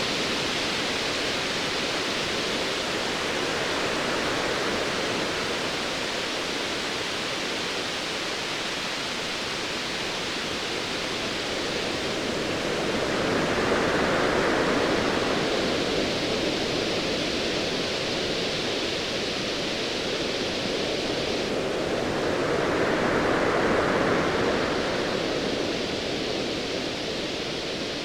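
Ocean waves washing in over a steady hiss of surf, swelling louder twice: once around halfway and again near the end.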